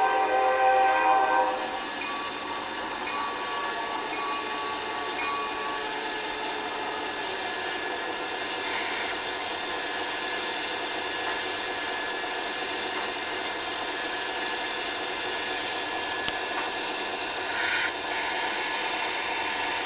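A train sounds a chord horn that cuts off about a second and a half in, then the train runs past steadily.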